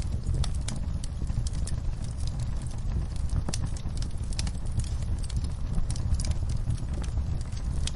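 Wood fire crackling, with many irregular sharp pops over a steady low roar of the flames.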